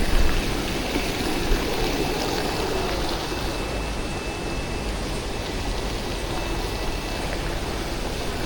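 Steady outdoor noise of a busy city street, traffic rumble and hiss without voices.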